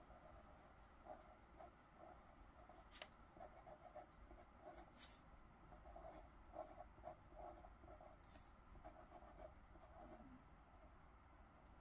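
Faint scratching and tapping of a pen tip on paper, in short irregular strokes, with a few sharp light clicks.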